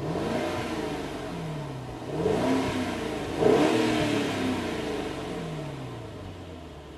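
Mercedes S560 W222's 4.0-litre twin-turbo V8 revved on the stock exhaust, with the Panthera active sound booster switched off. It blips about three times, the loudest rev about halfway through, then falls back toward idle.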